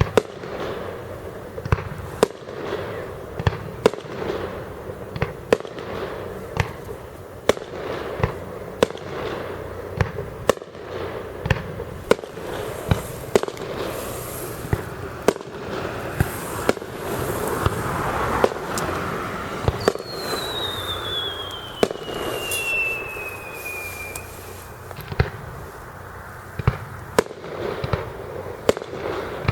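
Fireworks display: aerial shells going off in a steady run of sharp bangs, about one a second, with crackling in between. About two-thirds of the way in, a high whistle falls in pitch for about four seconds.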